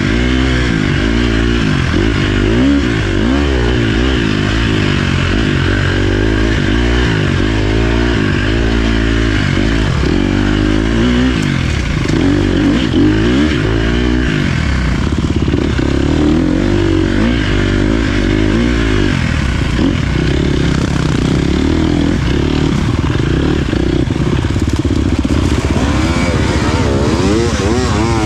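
Dirt bike engine being ridden hard, its revs rising and falling over and over as the throttle is worked on and off.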